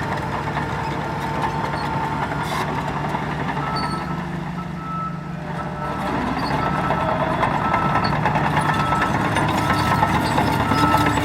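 Heavy diesel earthmoving machinery running at work, with a reversing alarm starting about four seconds in and beeping steadily as a machine backs up.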